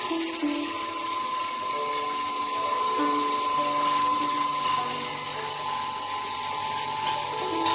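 Small high-speed grinding mill running with a steady, high-pitched motor whine.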